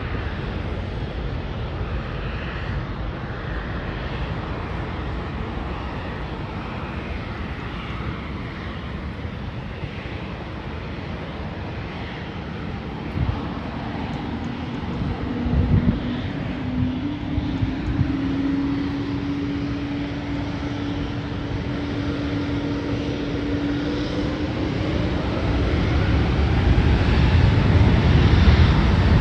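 Jet airliner engine noise at an airport: a continuous rumble that grows louder over the last several seconds. A steady low hum sounds through the middle, with a couple of short thumps.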